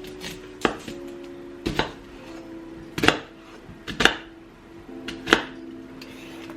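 Knife chopping on a cutting board: about seven sharp, irregular strikes, some in quick pairs, while ingredients are cut up for sweet-and-sour chicken.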